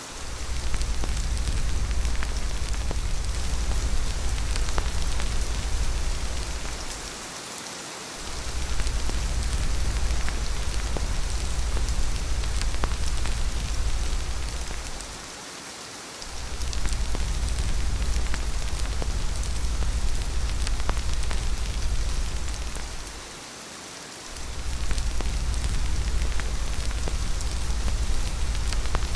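Steady heavy rain falling, with a low rumble beneath it that fades out for about a second roughly every eight seconds and then swells back.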